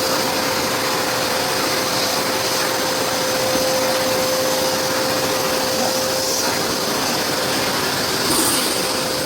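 Bosch wet-and-dry vacuum cleaner running steadily, a loud even rush of air with a constant motor whine.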